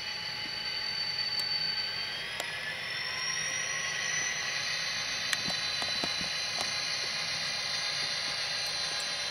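Tsunami sound decoder in a model SD40-2 playing a turbocharged EMD 645 diesel engine through the model's small speaker: a steady engine sound with a turbocharger whine that rises in pitch about two to three seconds in as the engine loads up. A few light clicks sound over it.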